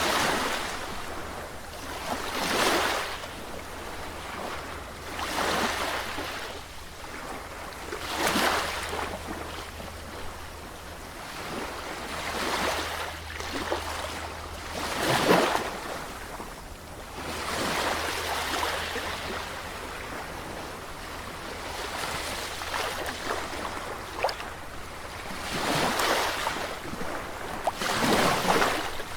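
Sea waves washing onto the shore, one surge of surf every few seconds, the loudest about halfway through, over a steady low rumble.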